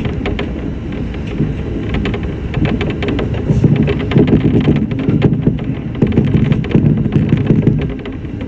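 Shinano Railway SR1 series electric train running on the line, heard from inside near the cab: a steady low rumble with rapid, irregular rattling and clicking throughout.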